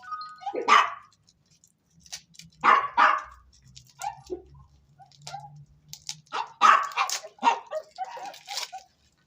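A dog barking in short bouts: one bark, then two close together, then a quicker run of several barks near the end.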